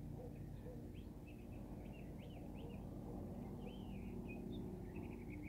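Small birds chirping, quick rising and falling notes repeating throughout, over a low steady hum.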